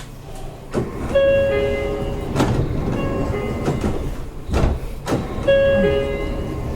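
Seibu 30000 series train: a two-note falling electronic chime sounds twice, about four seconds apart, over the carriage's rumble and a few sharp knocks and thuds.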